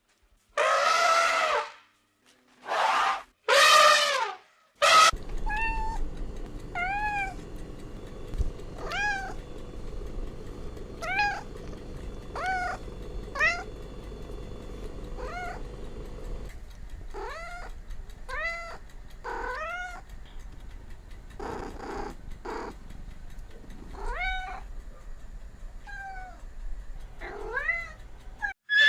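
A domestic cat meowing again and again: short high mews that rise and fall in pitch, about one every one to two seconds, over a steady background hum. The first few seconds hold three loud, longer calls before the meowing starts.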